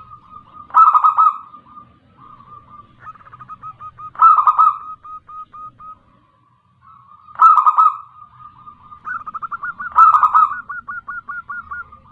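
Zebra dove (local perkutut) cooing: four loud calls about three seconds apart, each trailing into a fast run of short, even notes. This is the female zebra dove's call used as a lure to make a male answer and sing.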